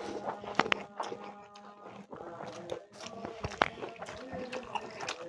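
Close-up eating sounds: chewing, mouth clicks and smacks from a person eating chicken curry and rice, in a quick irregular run of short sharp clicks.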